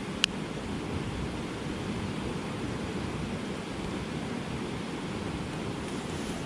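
Steady low rushing noise with one sharp click near the start.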